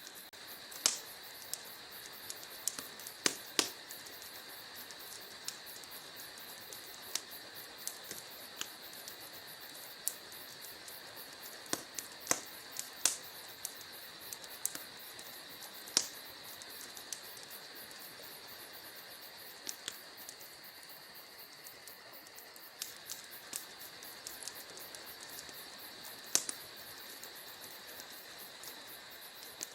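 Wood fire in a fireplace crackling: irregular sharp pops and snaps, some much louder than others, over a steady high hiss.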